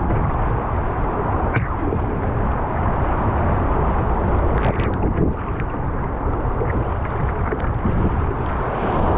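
Wind buffeting the microphone over rushing water around a surf kayak, with a few sharp splashes about halfway through.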